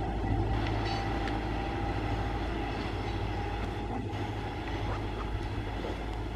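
Diesel-electric multiple unit (DEMU) train running on the line, with a steady low engine hum and a held whine, and a few faint rail clicks.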